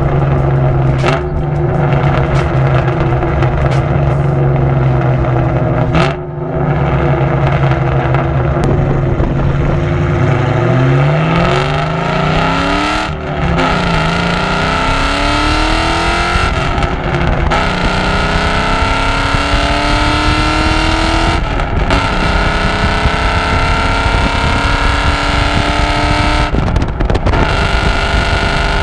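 Ford Mustang GT's cammed 4.6 L two-valve V8 (PI-swapped, Comp Cams 262 cams, long-tube headers, SLP LoudMouth exhaust). It runs at a steady engine speed for about ten seconds, then accelerates hard, its pitch climbing and dropping back at each of about four upshifts.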